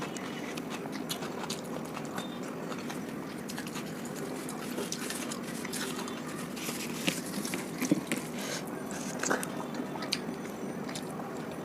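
Close-miked chewing and wet mouth sounds of a person eating egg curry with rice: many small clicks and smacks, a few louder ones past the middle.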